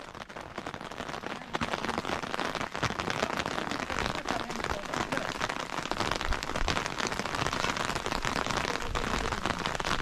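Steady rain falling on a hard surface, a dense spray of small drop impacts; it swells up over the first second or so, then holds steady.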